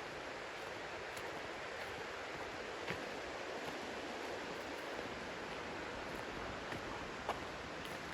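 Steady rushing outdoor background noise, with two faint clicks about three and seven seconds in.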